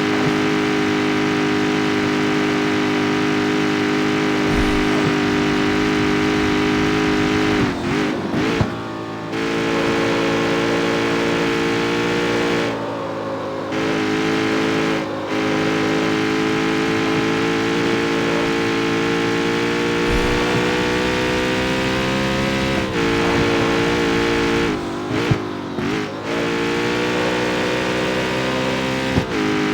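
Jaguar F-Type's supercharged V8 running under steady load, its note holding and slowly climbing. Several times it briefly drops in pitch and comes back, and twice a single sharp crack sounds from the exhaust.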